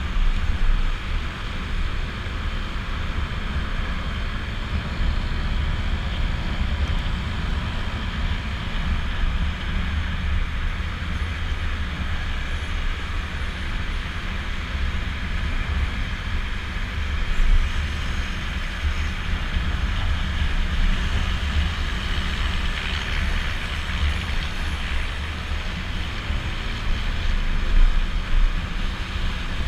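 Wind buffeting the microphone of a rider on a moving Honda PCX scooter, with the scooter's engine and road noise running steadily underneath. It swells briefly twice, at about 17 s and 28 s.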